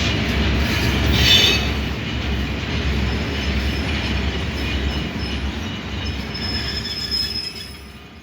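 Iron ore freight train running, its wagons rumbling heavily on the track with a faint high wheel squeal; the sound fades out near the end.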